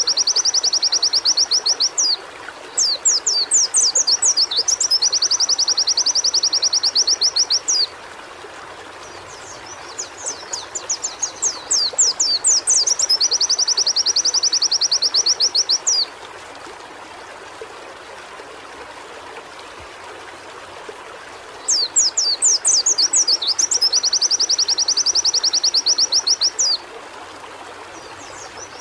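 White-eye (pleci) singing in bouts of several seconds each: a quick run of high chirping notes that runs into a fast, even trill. Four bouts come with short pauses between them, over a steady background hiss.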